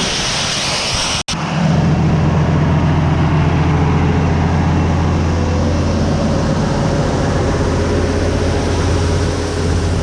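A rushing hiss, cut off sharply about a second in, then a combine harvester's engine running with a steady low drone while harvesting corn.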